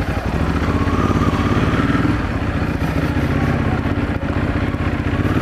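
Yamaha R6 sport bike's inline-four engine running at low, steady revs.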